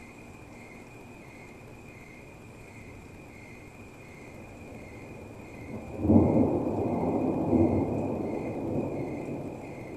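A thunderclap breaks suddenly about six seconds in, a loud low rumble that swells again a moment later and then slowly fades. Rain falls steadily throughout.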